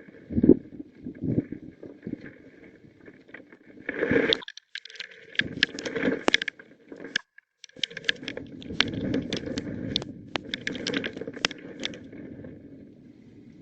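Severe thunderstorm winds gusting and buffeting the microphone, with many sharp clicks and knocks through the rush; the sound cuts out briefly twice.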